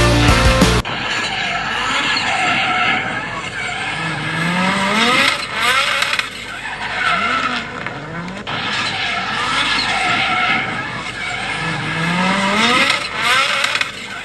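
A drift car's engine revving hard, its pitch rising and falling again and again as the throttle is worked, with tyres squealing through the slides. A short burst of rock music plays in the first second.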